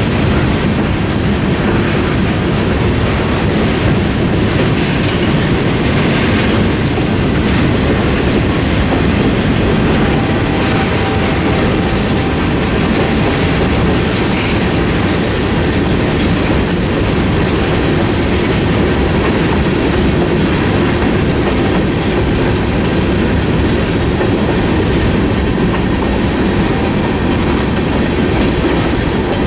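Steel wheels of a freight train's boxcars, covered hoppers and tank cars rolling past over the crossing, a loud, steady wheel-on-rail noise.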